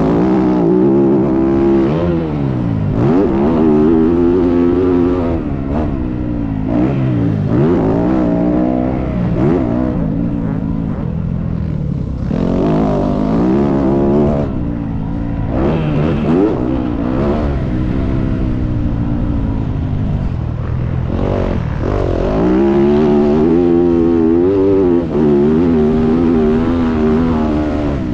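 Dirt bike engine being ridden hard on a motocross track, revving up and dropping back again and again as the rider opens and closes the throttle and shifts.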